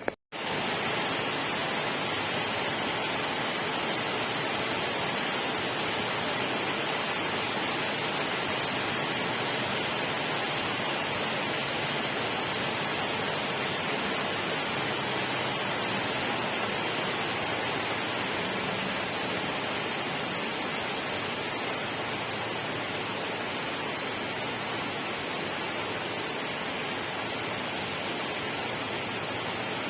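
Steady, even rushing noise of falling or running water, as used for sleep sounds. It cuts in abruptly after a brief silent break right at the start, then holds level throughout.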